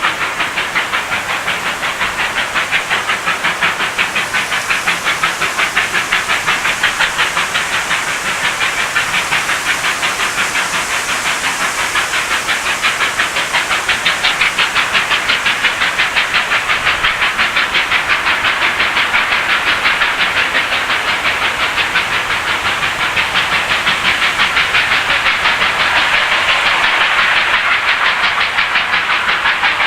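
Double-headed Victorian Railways R class steam locomotives working at speed, their exhaust beating in rapid, even chuffs with a steady hiss of steam.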